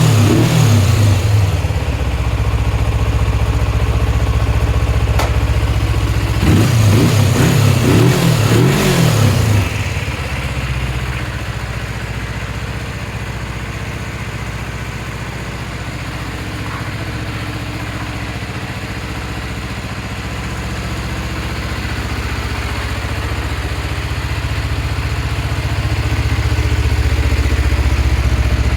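Kawasaki ZZ-R250 parallel-twin motorcycle engine running, revved twice: briefly at the start and again for about three seconds a little later, each time rising and falling back, then settling into a steady idle.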